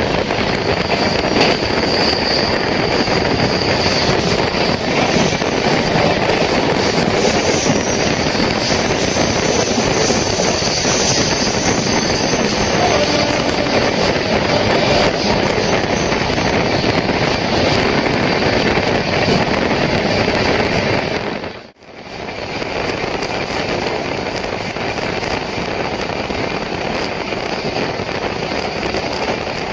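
Express passenger train running at speed: a steady rush of wind and wheel noise on the rails, heard from on board. It breaks off for a moment about three quarters of the way through.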